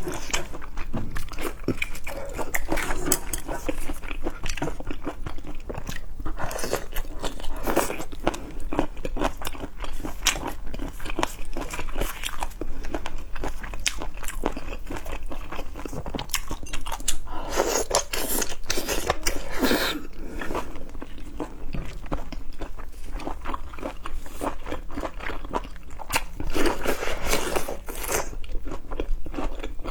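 Close-miked chewing and crunching of seafood, with dense irregular bites and crackles and louder bursts of crunching now and then.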